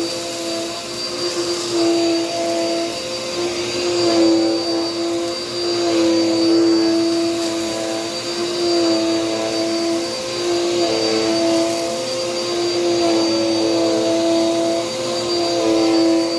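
Dirt Devil Power Max vacuum cleaner running, a steady motor whine with a thin high whistle above it, its tone shifting a little and its loudness swelling and easing every couple of seconds. The owner calls the motor healthy.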